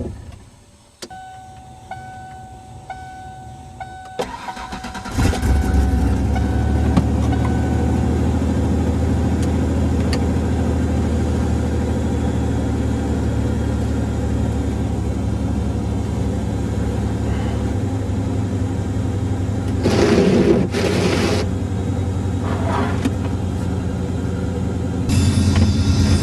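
Inside the cab of a 1994 Ford Ranger pickup, a steady warning-chime tone sounds for a few seconds. Then the engine cranks and starts about five seconds in and settles into a steady idle. A short burst of noise comes about twenty seconds in, and music comes back on near the end.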